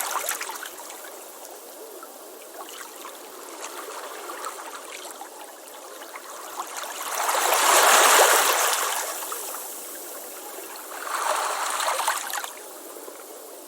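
Ocean waves breaking on a beach. A wave washes in loudest about halfway through and a smaller one near the end, with the hiss of water running back between them.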